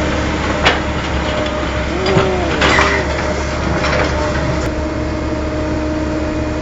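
Excavator's diesel engine running steadily under load while the machine works to free its stuck bucket, with a sharp knock about a second in, a short rasping noise near the middle, and a few more knocks after.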